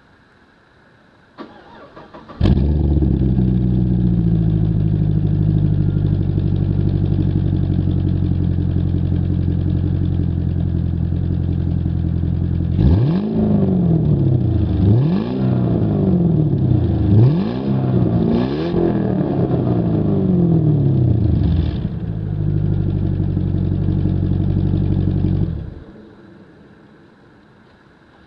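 Holden VZ SS Thunder ute's 6.0-litre V8 through a 2½-inch stainless X-Force catback exhaust: the starter cranks briefly and the engine catches with a loud flare, then idles. Partway through it is revved about five times, each rev rising and falling in pitch, then settles back to idle and is switched off.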